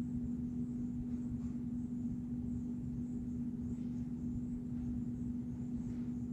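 A steady, unchanging hum with one strong low tone over a low rumble, and a few faint ticks.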